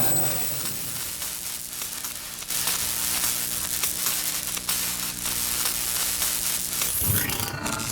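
Honda Super Cub 110 (JA59) air-cooled single-cylinder four-stroke engine running at a steady speed, a busy hissing, clattering mechanical noise over a steady low hum; the sound changes about seven seconds in.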